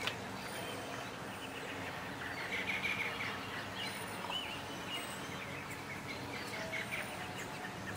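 Birds chirping in short calls, a few seconds apart, over steady outdoor background noise.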